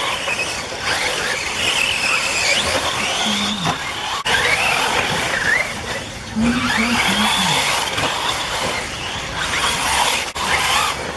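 Several electric off-road RC buggies racing, their motors whining up and down in pitch as they speed up and slow down, overlapping one another.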